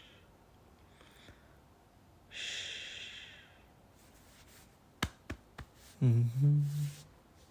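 A soft, breathy sigh close to the microphone about two seconds in. Three quick, sharp clicks follow about two seconds later.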